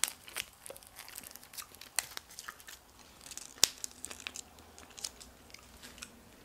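Close-up mouth sounds of chewing soft fried pickles: scattered wet clicks and smacks, with one sharp click a little past halfway, growing sparser toward the end.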